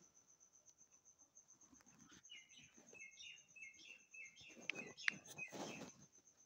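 Faint background chirping, a run of short repeated bird-like notes starting about two seconds in, over a steady high-pitched pulsing tone.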